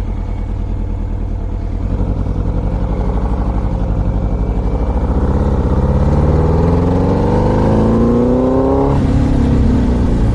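Yamaha R1 superbike's inline-four engine running low in the revs, then accelerating with a rising engine note for about four seconds before the revs drop suddenly near the end.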